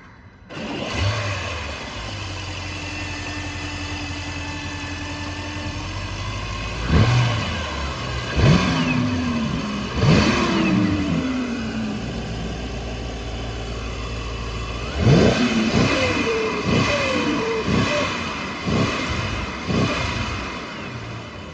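Mercedes-AMG S 63's 4.0-litre twin-turbo V8 running at idle, then revved in short throttle blips: three blips spaced about a second and a half apart, then after a pause a quicker run of about six.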